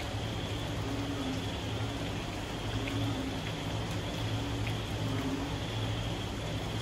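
Moderate rain falling steadily, with frogs giving a low-pitched call that repeats about every two seconds.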